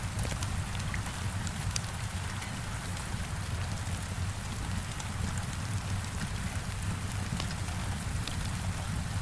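Heavy rain falling steadily, with a low rumble underneath and scattered sharp ticks of drops striking a surface.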